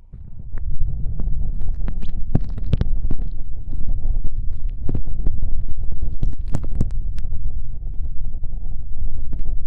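Close-miked ASMR ear licking in the left ear of a binaural microphone: a tongue pushed deep into the ear makes wet clicks and smacks over a muffled low rumble from the ear being plugged and covered.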